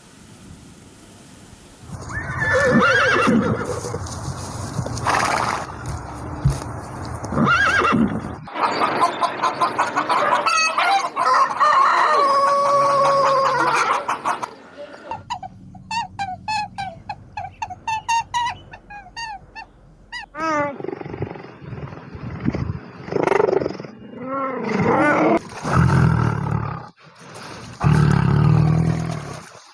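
A run of different domestic animal calls, one clip after another: pitched, gliding calls, a long held call, then a stretch of rapid repeated chirps and more calls near the end.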